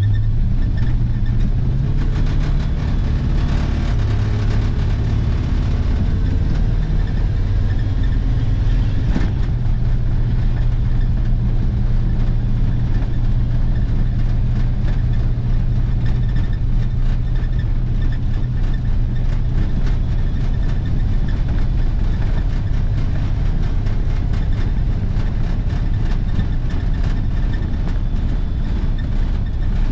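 The 1955 Ford box truck's 454 cubic-inch V8 running steadily while driving, with road noise, heard from the cab. The engine note shifts a little in the first few seconds, then holds even.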